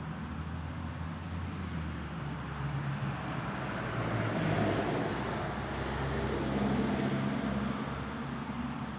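A steady low engine hum with a continuous hiss over it, getting louder about four seconds in and easing near the end.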